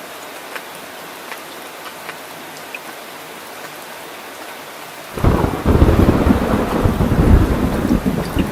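Steady rain hissing, with scattered drips ticking. About five seconds in, a loud rumble of thunder breaks in suddenly and keeps rolling.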